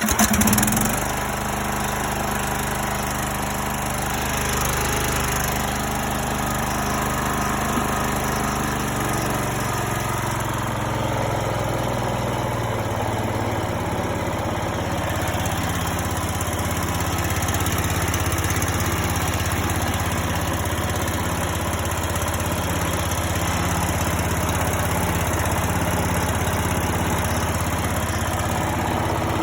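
Greenfield E2000 ride-on mower's 17 hp Briggs & Stratton Intek OHV engine running steadily, just fired up on a squirt of starting spray after years of sitting. Its speed shifts slightly about ten seconds in, then holds even.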